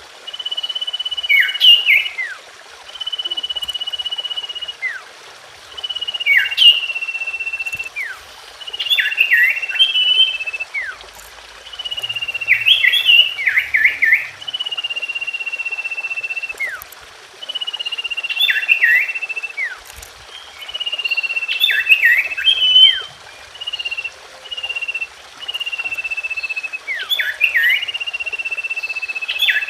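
Common iora (cipoh) song: a long, level high whistle held about a second, alternating with clusters of quick downward chirps, repeating every two to three seconds.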